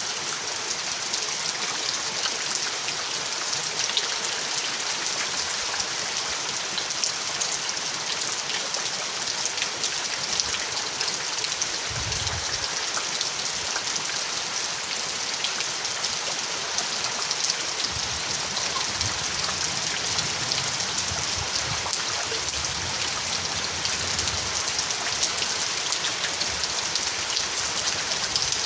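Steady, heavy rain falling, a dense even hiss of drops on surfaces, with faint low rumbles about twelve seconds in and again from about eighteen seconds.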